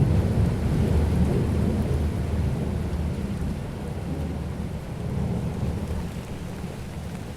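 A roll of thunder rumbling low and slowly dying away, with rain falling steadily.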